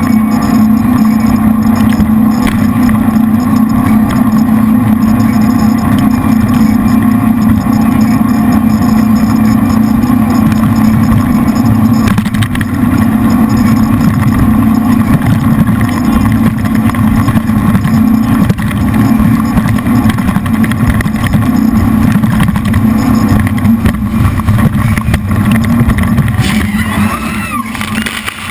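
Jet boat's three big-block Chevy V8 engines, each driving a Hamilton 212 water jet, running hard at a steady high speed with a constant deep hum. About two seconds before the end, wavering higher-pitched sounds come in over the engines.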